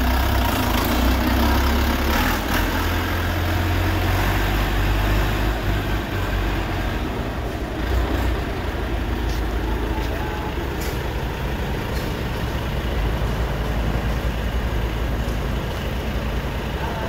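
Tractor engine running steadily with a deep, rumbling low end, a little quieter after about six seconds.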